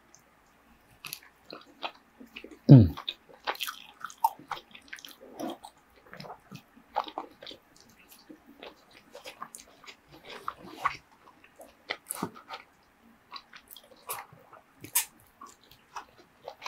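Close-miked eating: wet chewing, smacking and lip clicks as a forkful of shredded kalua pork and rice is eaten. A brief loud sound falls in pitch about three seconds in.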